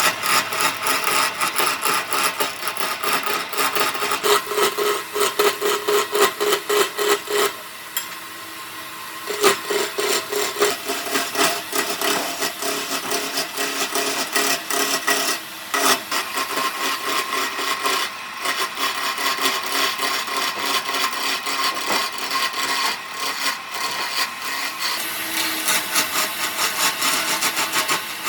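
A hand tool working wood with fast, even back-and-forth strokes of rubbing and scraping, with a short pause about eight seconds in.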